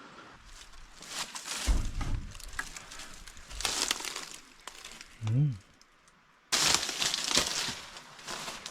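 Crunching and rustling of a person moving on foot through dry bush, in uneven bursts, with a short low grunt about five seconds in. The rustling drops out briefly and then starts again suddenly.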